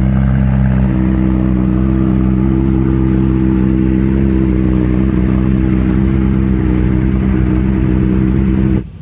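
Large motorcycle engine running loud at a steady speed, holding one even note with no revving, then cut off abruptly near the end.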